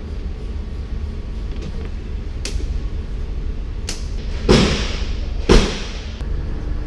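Two heavy thuds about a second apart, preceded by a few faint clicks, over a steady low hum.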